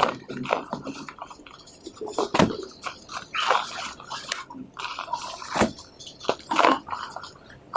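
Dry cast cement pot crumbling and crunching: irregular gritty crackles with a few sharp, louder crunches, one about two and a half seconds in and another a little past halfway.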